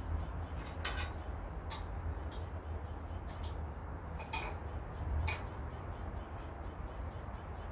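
Scattered light clicks and taps, roughly one a second, from parts of a bandsaw being handled and adjusted, over a steady low hum.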